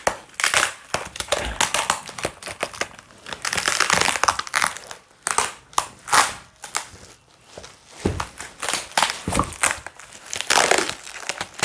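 Plastic bubble wrap being pulled off a parcel and crumpled by hand: irregular crinkling and crackling rustles in uneven bursts.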